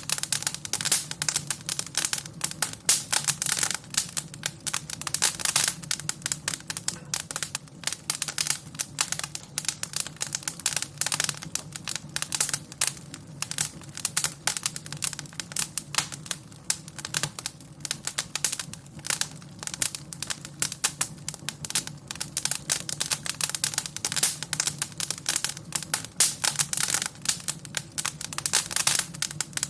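Wood fire crackling in a fireplace: a dense, irregular stream of sharp snaps and pops, over a steady low rumble.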